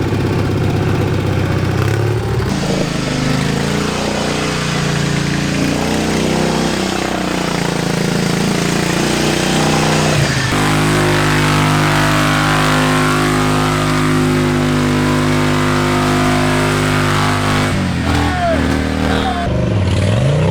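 Modified lawn-tractor mud mower engines running hard under load, in several short stretches that change abruptly. Partway through, one engine holds a steady high rev for several seconds. Near the end, the pitch drops and climbs again as the throttle is let off and reapplied.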